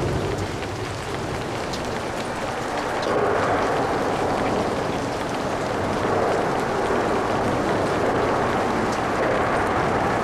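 Steady rain with light traffic hissing on wet pavement, with faint drop ticks over an even wash of noise. The wash swells a little louder about three seconds in.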